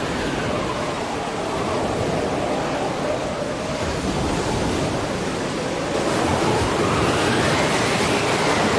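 Steady rush of wind and sea water, with a faint wavering tone that rises and then falls about two-thirds of the way through.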